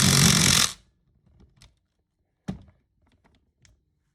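A power tool runs briefly on a 14 mm caliper bolt and stops abruptly under a second in. A few light clicks follow, with a single sharp knock about two and a half seconds in.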